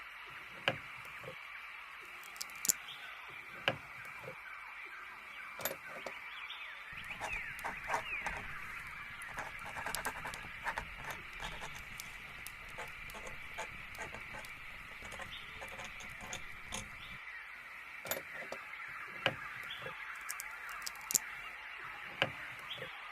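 Ambient soundscape of many small birds chirping steadily, with scattered light clicks and taps throughout.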